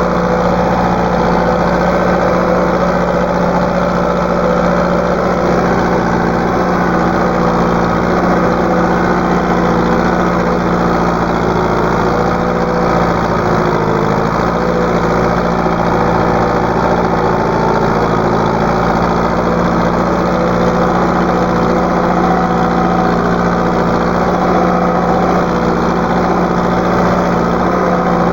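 Tractor engine running steadily at working revs while pulling a harrow through a field.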